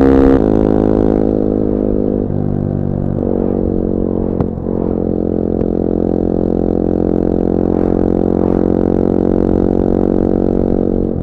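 Bullit Hero 250's CF Moto 250cc four-stroke engine on the move. The note drops about half a second in as the throttle eases, steps down twice more in the next few seconds, then runs steady, with a brief click near the middle.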